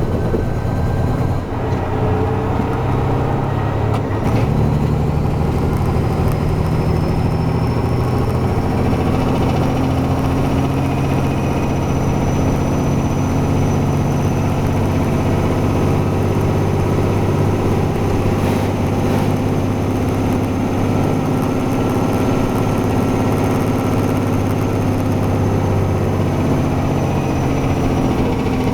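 Heavy truck's diesel engine running steadily under way, with a thin high whine that rises slowly and then holds. There is a brief dip in level about a second and a half in.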